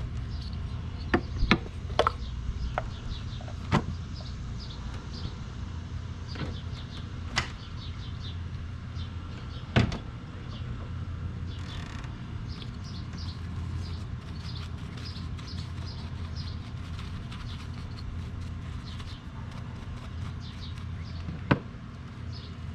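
Hand cleaning work in a car's engine bay: a handful of sharp clicks and knocks from tools and bottles, spaced irregularly, with one short spray hiss around the middle, over a steady low hum and faint high chirping.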